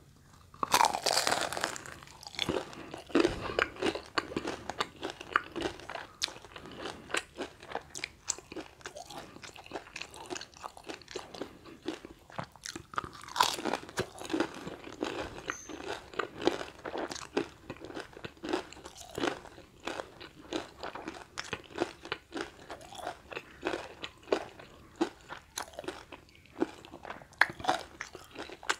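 A crisp bite into a battered deep-fried snack about a second in, then steady close-up crunching and chewing of the fried batter, with another loud crunch about halfway.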